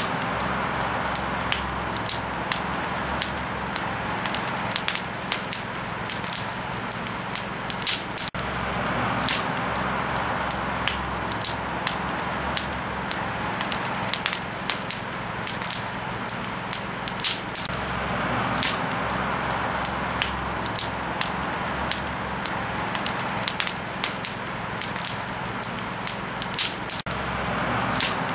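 Campfire crackling: irregular sharp pops and snaps over a steady hiss of the burning fire.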